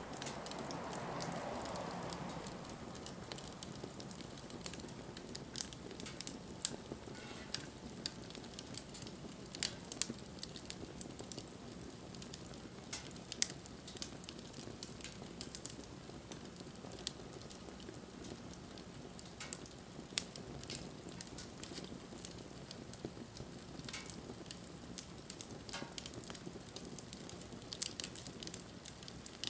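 Wood fire crackling, with irregular sharp pops of burning wood scattered throughout over a low steady hiss; a soft rushing swell in the first couple of seconds.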